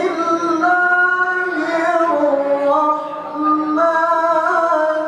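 A single voice reciting the Qur'an in melodic tilawah style, holding long drawn-out notes that step up and down in pitch.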